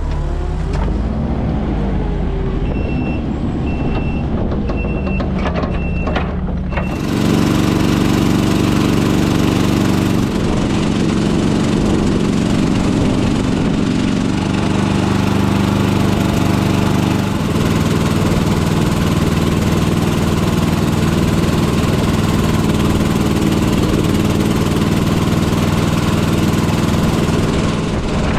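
An engine running steadily. For the first few seconds it is quieter and wavers in pitch, with a short high beep repeating several times. About seven seconds in, a louder, steady engine hum takes over.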